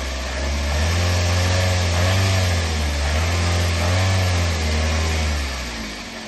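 Toyota RAV4 engine revved up and down in repeated swells about once a second, pushed past its normal running state to create abnormal vibration. It settles back and drops in level about five and a half seconds in.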